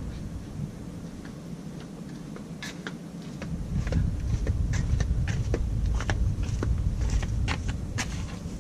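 Handling noises: irregular light clicks and taps from about two and a half seconds in, over a low rumble that drops away briefly near the start and comes back.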